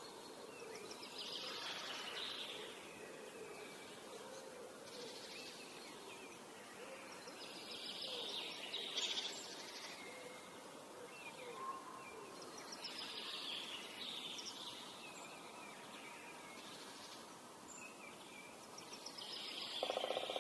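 Forest ambience: birds singing in short phrases that recur about every five to six seconds, with some lower chirps, over a steady hiss of flowing water.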